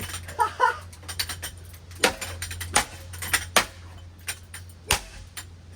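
Damaged Hunter ceiling fan running with a steady low hum while its loose metal parts clink, rattle and knock irregularly, with sharp knocks about 2 s and 5 s in.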